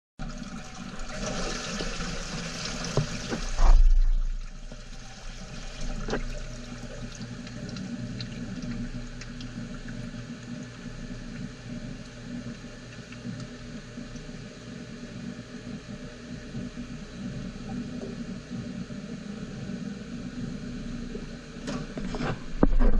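Wire EDM machine running, its dielectric water flushing around the cutting wire with a steady splashing hiss over a low machine hum. The flow is louder for the first few seconds, followed by a thump about four seconds in and a few knocks near the end.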